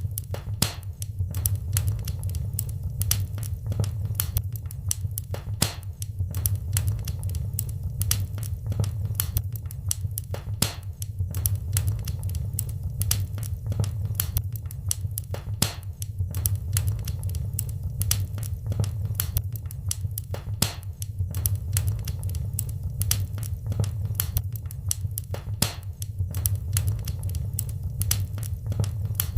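Fire in a fireplace crackling and popping: many irregular sharp snaps over a steady low rumble.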